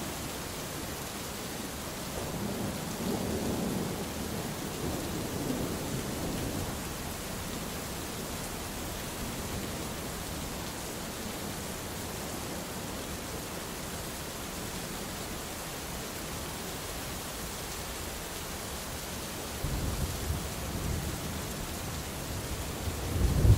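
Steady heavy rain with rolling thunder: a low rumble swells and fades in the first few seconds, and a louder thunder rumble builds up near the end.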